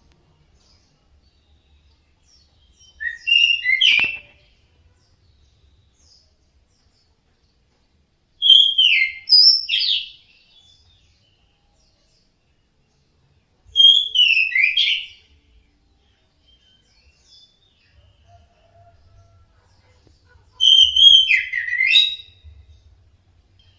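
Orange-headed thrush singing: four short phrases of quick, sweeping whistled notes, each about two seconds long and several seconds apart.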